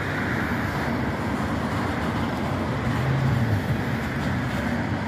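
Steady rolling noise of a freight train of covered hopper cars passing.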